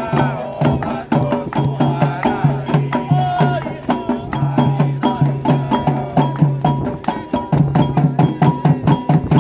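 Candomblé drumming on atabaque hand drums in a fast, dense rhythm, with sharp wood-block-like strikes and voices singing over it.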